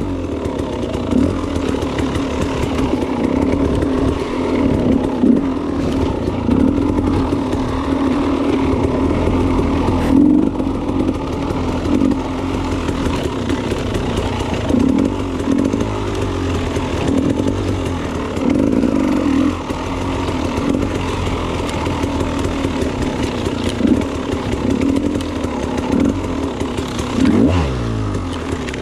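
Off-road enduro motorcycle engine running under constantly changing throttle, its pitch rising and falling throughout. Near the end the engine drops off and then climbs again.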